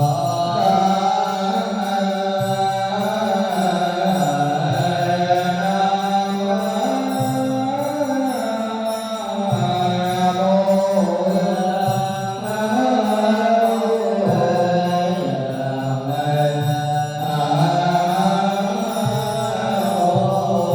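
Melodic Buddhist chant: held, slowly moving sung notes over a low sustained accompaniment that changes pitch about every two and a half seconds.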